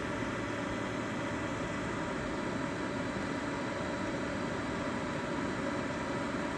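A fan running steadily: an even hiss with a faint low hum.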